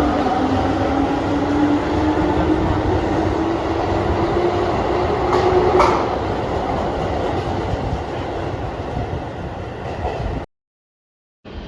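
Keihan electric train running, its traction motor whine rising slowly in pitch as the train gathers speed, over steady rolling noise with two sharp clicks about halfway. The sound cuts off abruptly about a second before the end.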